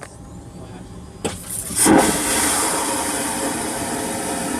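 Airplane lavatory vacuum toilet flushing: a click, then a sudden loud whoosh of suction that keeps going.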